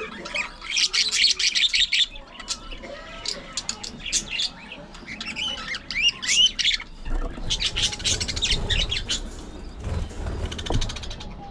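A flock of budgerigars chattering, with rapid chirps and squawks coming in bursts. A low rumble runs underneath in the second half.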